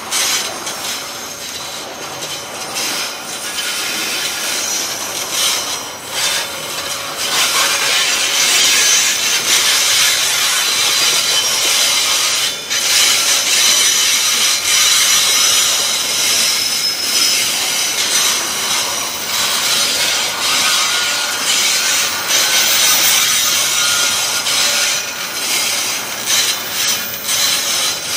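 Container freight train's wagons rolling past: a steady, harsh grinding of steel wheels on rail with thin high squeals now and then, louder from about seven seconds in.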